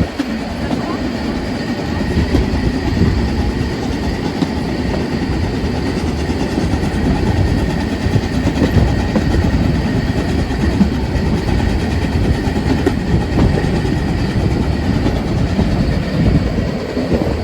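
Narrow-gauge Brocken Railway train running along the track: a steady rumble with the clatter of the wheels.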